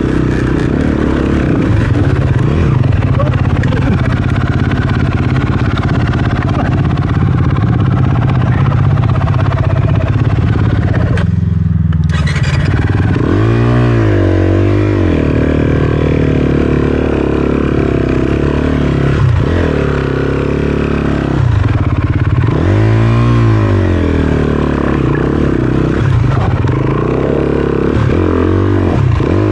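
Honda CRF250RX four-stroke single-cylinder dirt bike engine running hard on a trail. About halfway through it drops off briefly, then revs up and down several times, with a few sharp knocks.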